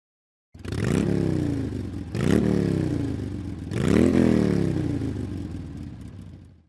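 A motor vehicle's engine revved three times, each rev climbing quickly and then falling away slowly.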